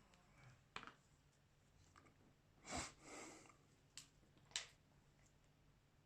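Faint, scattered clicks and taps of small hand tools on a smartphone's parts during a screen repair, three sharp clicks and a short scraping rush about three seconds in.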